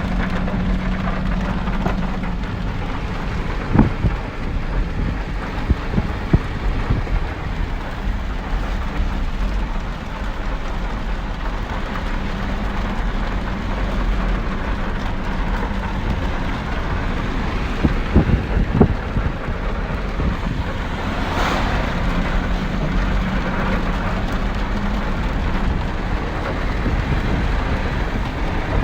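Steady rain falling hard, with a few sharp taps of drops striking close by.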